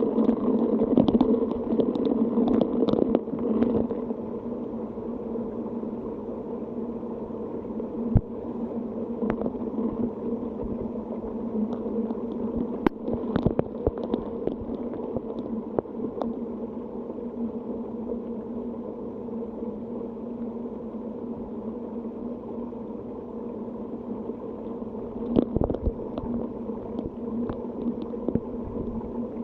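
A steady low mechanical hum with scattered sharp ticks and taps over it, a little louder in the first few seconds.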